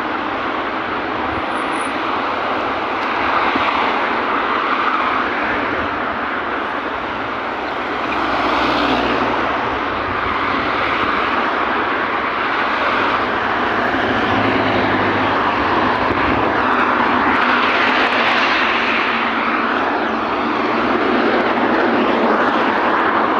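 Steady rushing traffic noise, swelling a few times as vehicles pass.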